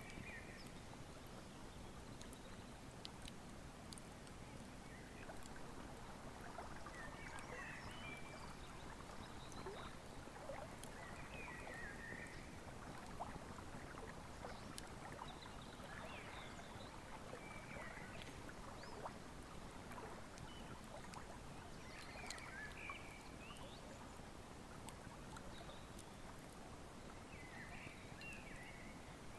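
Wood fire crackling with scattered sharp pops over the steady rush of a river. A bird sings short chirping phrases every few seconds.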